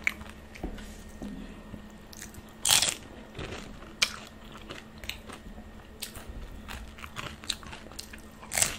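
Close-up crunching and chewing of crisp wheat-flour golgappe (pani puri shells) bitten whole. Scattered crackly crunches, the loudest about three seconds in and again near the end as another puri goes into the mouth, with a single sharp crack about four seconds in.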